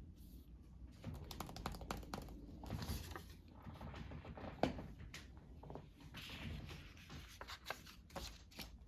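Paper and craft materials being handled on a table: soft rustling with scattered small clicks and scratches, faint throughout.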